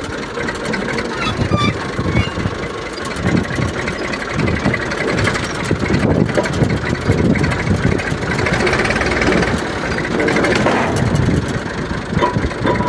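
Tractor engine running hard, its sound swelling and easing several times and loudest in the second half.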